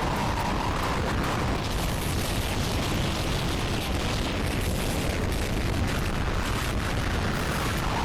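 Violent storm wind with rain: a steady, loud rushing noise, heaviest at the low end, as the gusts blow across the microphone.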